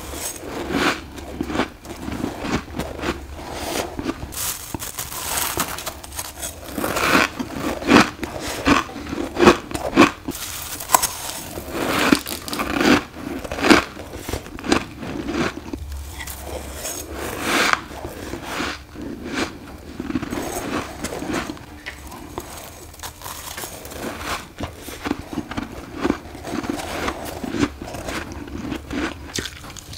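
Close-miked bites and chewing of freezer frost ice: a continuous run of crisp, irregular crunches, the loudest around a third of the way in.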